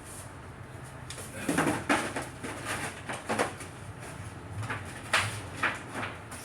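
A series of irregular short knocks and scrapes, starting about a second in, over a steady low hum.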